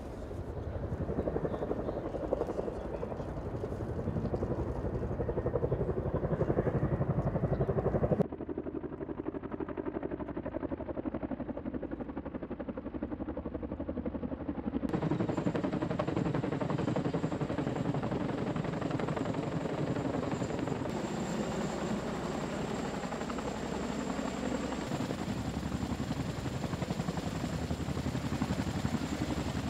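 Helicopter running, its rotor chop loud and dense, changing abruptly several times as the shots cut. A steady high whine runs under it in the second half.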